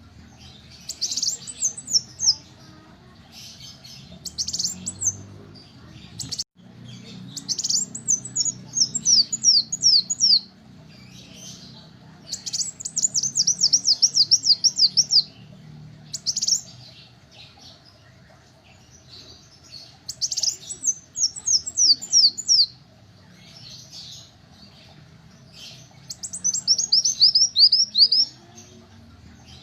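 Kolibri wulung sunbird singing: bursts of rapid, high-pitched, downward-sweeping chirps, each burst a quick run of about ten notes, repeated after pauses of a few seconds.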